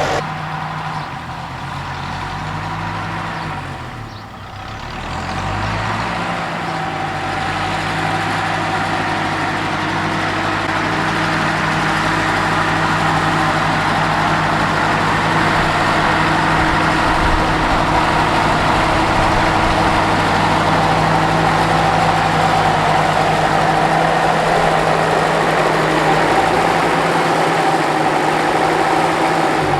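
Ferguson TEF tractor's four-cylinder diesel engine ticking over. Its revs sag about four seconds in and pick up again, then it settles into a steady idle.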